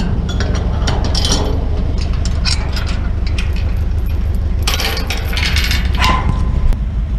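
Vehicle running along the road heard from inside the cab, a steady low rumble with many small clinks and rattles of loose items, and a louder rush of noise about five seconds in.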